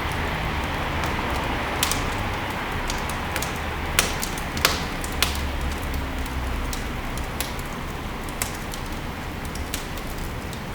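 Wood fire burning in a fireplace: a steady hiss of flames with sharp crackles and pops every second or two, the loudest about four seconds in.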